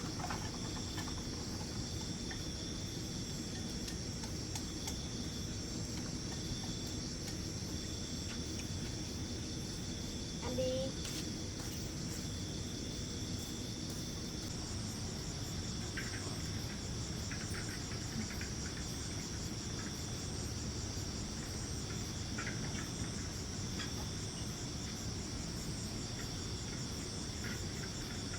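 A steady chorus of insects, crickets by the sound tags, chirping in high, evenly pulsing trills; a second, faster-pulsing high trill joins about halfway through. Underneath runs a constant low background noise.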